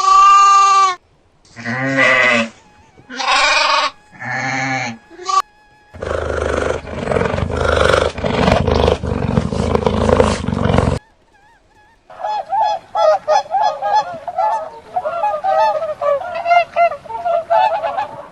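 A run of animal calls. First come four short pitched calls, one after another, in the first five seconds. Then comes about five seconds of rough, noisy calling, and after a brief gap, many quick overlapping calls from a group of birds.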